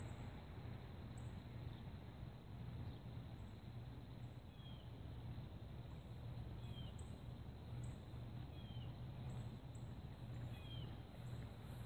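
Faint outdoor ambience: a steady low hum, with a bird repeating a short falling chirp about every two seconds from about halfway through.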